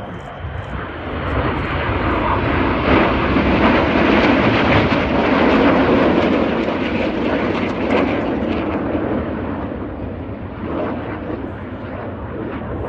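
Red Arrows BAE Hawk T1 jets flying a display pass, their Rolls-Royce Adour turbofans building to a loud roar in the middle and fading away toward the end.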